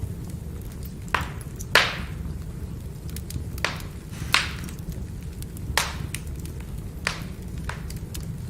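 Firewood fire burning with a steady low rumble, broken by about six sharp crackling pops of the burning wood and many faint ticks, the loudest pop a little under two seconds in.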